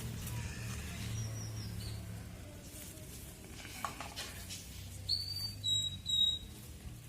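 Small birds chirping: a few short high notes early on, then three clear chirps in the second half, over a low steady hum.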